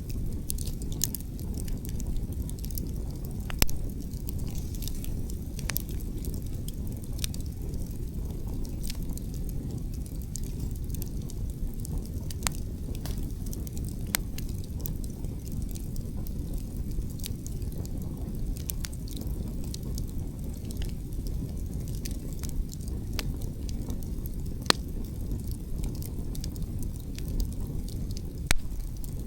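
Outdoor wood fire crackling, with irregular sharp pops from the burning logs, a few louder ones about four seconds in and near the end, over a steady low rumble of wind.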